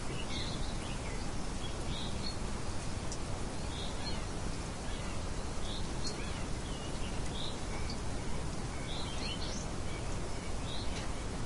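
Small birds chirping in short calls every second or so over a steady hiss of light wind.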